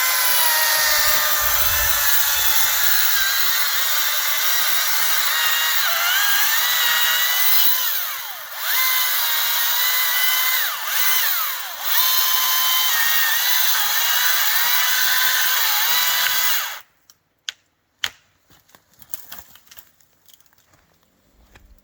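Battery electric chainsaw cutting into a tree trunk. Its high motor whine dips in pitch as the chain bites and recovers between cuts. The saw stops about 17 seconds in, and a few faint clicks follow.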